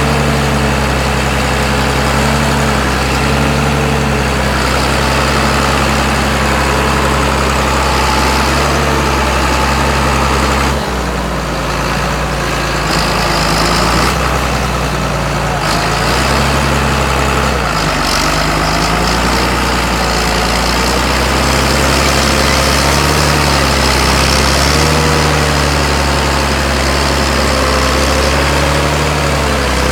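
John Deere 8410T tractor's six-cylinder diesel engine running steadily at idle, its low tone shifting a couple of times.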